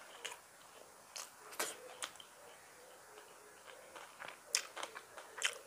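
Mouth sounds of a person chewing rice and curry, close to a clip-on microphone: scattered short wet clicks and lip smacks, the two loudest near the end.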